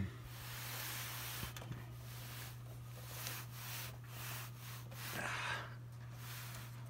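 Faint rubbing and scuffing as the metal box fan is handled and turned, over a steady low hum, with a louder scrape about five seconds in.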